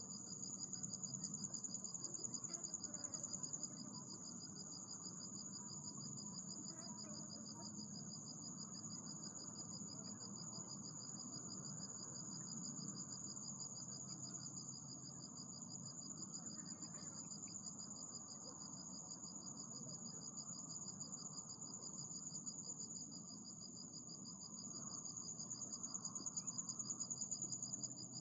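Insects trilling steadily in two high pitches, a rapid pulsing buzz that swells louder about a second in and again near the end, over a soft low background noise.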